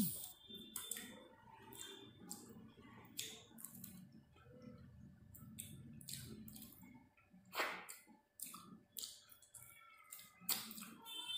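Close-miked eating sounds of chicken curry and rice eaten by hand: chewing with wet lip smacks and mouth clicks, one smack louder about two-thirds of the way in.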